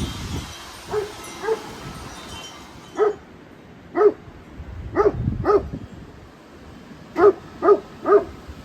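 A dog barking repeatedly, about nine short, sharp barks in irregular bunches, over wind gusting against the microphone.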